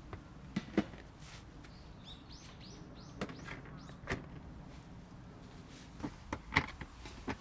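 Scattered clicks and knocks, with a quick run of high chirps about two seconds in, over a steady low background noise.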